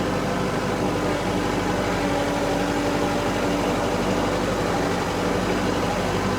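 A tractor's diesel engine running at a steady speed with no change in pitch or load.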